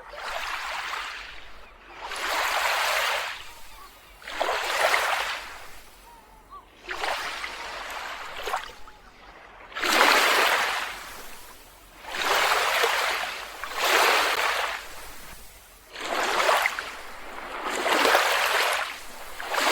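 Small waves washing up onto a beach and drawing back, one wash about every two seconds, each a hissing swell that rises and fades.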